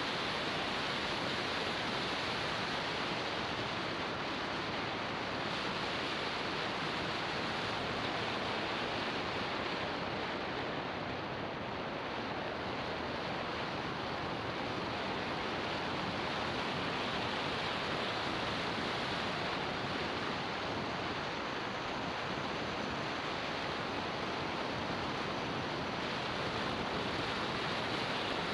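Steady rush of wind over a motorbike-mounted action camera's microphone at riding speed, an even hiss with no engine note standing out.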